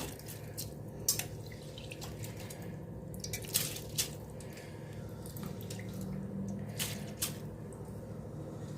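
Raw rice being added to water in a pressure pan: scattered small splashes and drips, over a steady low hum.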